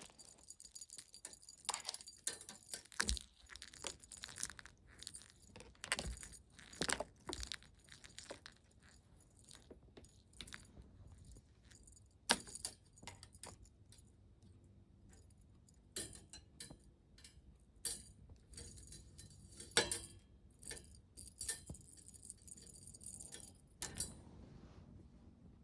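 A cat toy clinking and rattling in irregular clusters of sharp little clicks as a kitten plays with it, stopping near the end.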